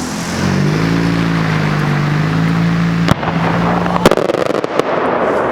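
Two sharp firework bangs, about three and four seconds in, the second one louder and followed by about a second of crackling, over a steady low hum.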